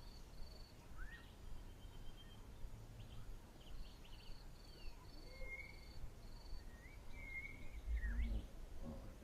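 Wild birds calling in the bush: a run of short repeated high notes and scattered chirps and whistles that rise and fall. A brief low rumble comes about eight seconds in.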